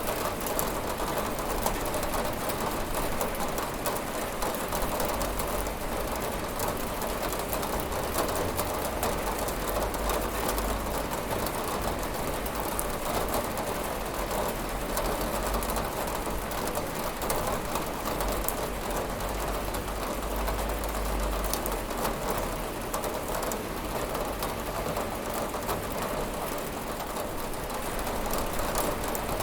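Steady rain falling on a window: a continuous even hiss with scattered fine taps of drops.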